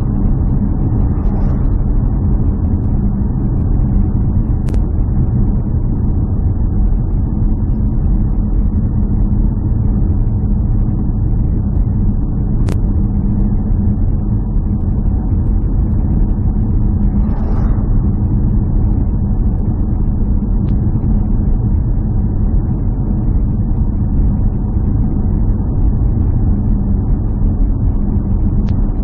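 Steady low drone of a running vehicle engine, with a few sharp ticks.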